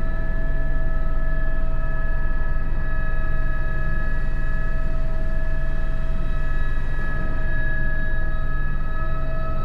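Airbus H125 helicopter in flight, heard from inside the cockpit. Its Arriel turboshaft engine and rotor give a steady low drone, with a few constant high-pitched whine tones over it.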